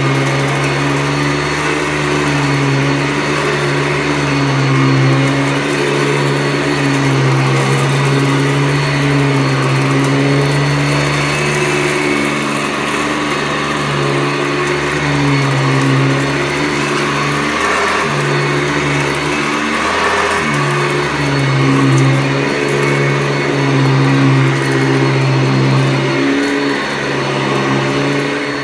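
1985 Hoover Decade 80 upright vacuum cleaner running with a steady motor hum, briefly dipping twice about two-thirds of the way in.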